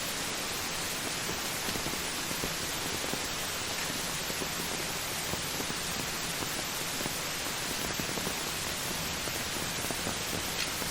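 Heavy rain falling steadily: an even hiss with a few faint drop ticks.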